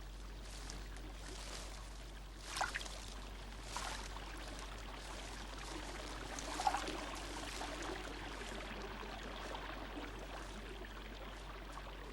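Running water, a steady trickling stream, with two brief sharper sounds over it about two and a half and six and a half seconds in.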